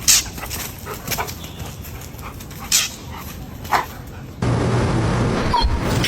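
A dog giving about four short, sharp yipping barks, the loudest right at the start. A steady low hum comes in about two-thirds of the way through.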